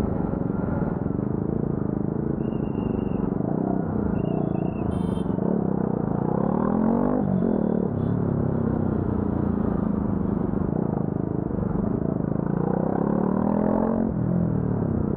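Motorcycle engine running while being ridden, its pitch rising and falling as the rider accelerates and eases off.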